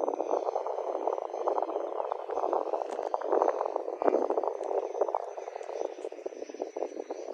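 Wind buffeting the microphone: an irregular, crackling gusty noise that swells strongest about three to four seconds in.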